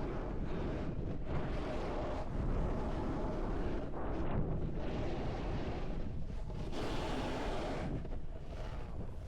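Wind rushing over the microphone on a snowboard run, with the board sliding and scraping over snow; the noise swells and eases unevenly as the rider turns.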